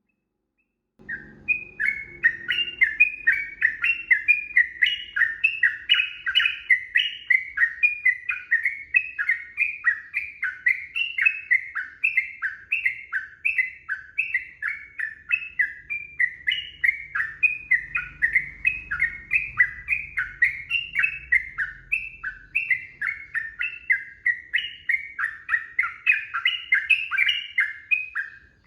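Yellow-vented bulbul (trucukan) singing a long, rapid, unbroken chattering song of short falling notes, several a second, starting about a second in.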